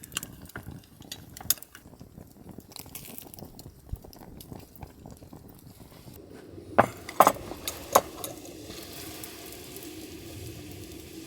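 Camp cooking with metal cookware and utensils: small scrapes and taps, then several sharp ringing clinks a little past the middle, followed by a steady sizzle from the pan.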